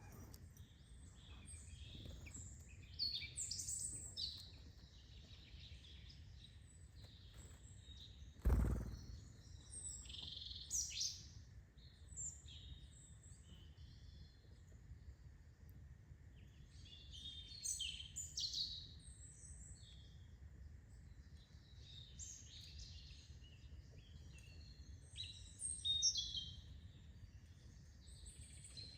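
Wild birds chirping and calling, short high notes and trills coming in clusters over a steady low background hiss. A single low thump about eight seconds in is the loudest sound.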